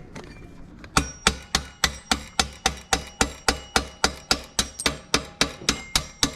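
Hammer tapping on the rear axle of a 2012 Yamaha V Star 950 to drive it out of the swingarm: a steady run of sharp metallic strikes, about three to four a second, each with a brief ring, starting about a second in.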